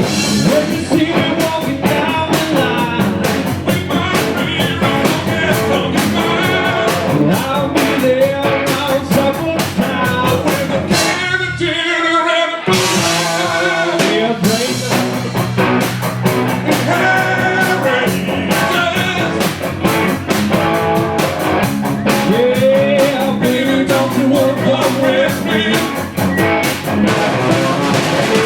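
Live rock band playing a boogie blues-rock song: electric guitar and drum kit under a sung lead vocal. About eleven seconds in, the drums and low end drop out for a moment, leaving a short break before the full band comes back in.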